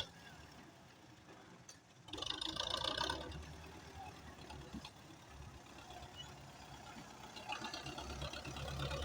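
Tractor diesel engine running, louder from about two seconds in, with a short noisy rush in the first second after that and the engine building again near the end.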